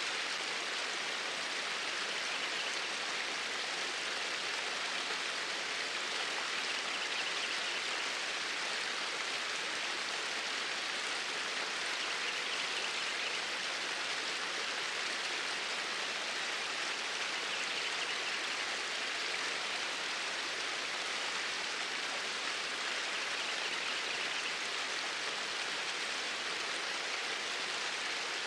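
Flowing stream water, a steady, even rush of noise that does not change.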